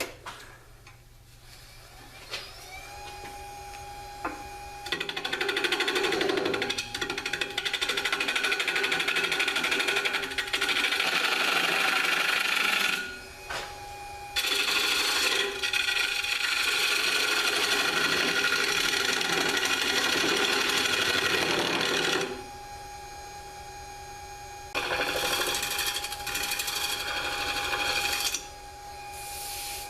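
Jet mini 1221 variable-speed wood lathe spinning up a few seconds in, its motor settling into a steady whine. A bowl gouge then cuts into the spinning dry hard-maple bowl blank in three long passes, each a loud rough shearing noise over the motor.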